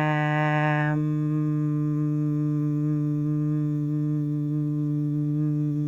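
A voice holding one long, steady note: a stretched-out short-a 'aaa' that about a second in closes into a hummed 'mmm', the two phonics sounds blended slowly to make the word 'am'.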